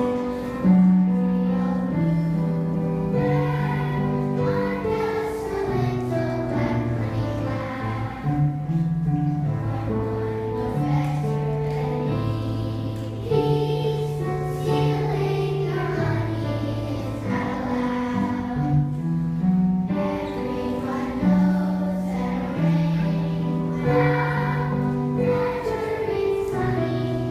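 Children's voices singing a song over musical accompaniment, the melody moving in clear steps from note to note.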